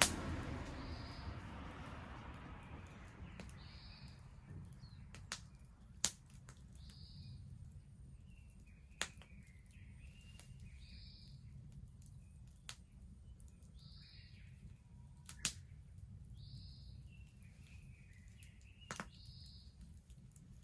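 Garden wood bonfire burning, with a steady low rumble and sharp single crackling pops every few seconds; a louder rush of noise at the start fades away over the first couple of seconds. A bird calls with a short high note about every three seconds.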